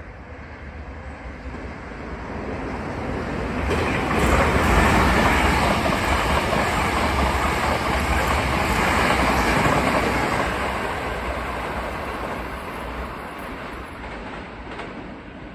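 Hankyu 9000-series limited express train passing through the station at speed without stopping: wheels on rail grow louder as it approaches, are loudest from about four to ten seconds in as the cars go by, then fade as it pulls away.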